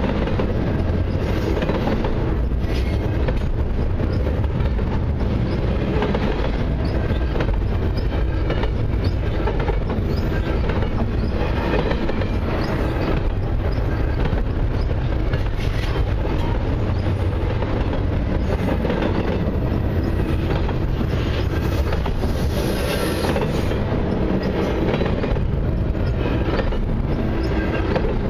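Double-stack intermodal freight cars rolling past at steady speed: a continuous low rumble and clatter of steel wheels on the rails, with frequent clicks as the wheels pass over rail joints.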